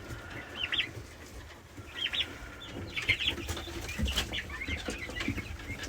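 Young poultry peeping in a pen: a few short, high chirps, with some soft thuds and rustling of the birds moving about.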